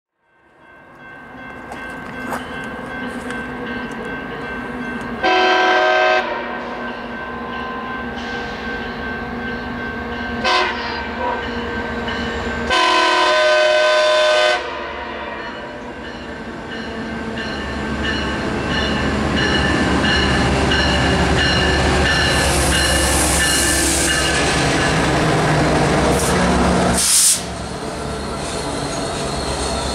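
Northstar commuter train sounding its horn as it approaches: a blast of about a second, a short toot, then a longer blast of nearly two seconds. Then the train's rumble grows louder as it pulls in alongside, with a stretch of hiss and a sharp burst of noise near the end.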